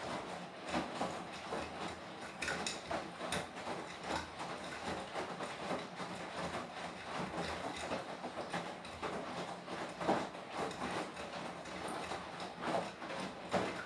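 Beko WTK104121W washing machine turning its drum mid-wash, the laundry tumbling with irregular knocks and clicks over a steady motor hum.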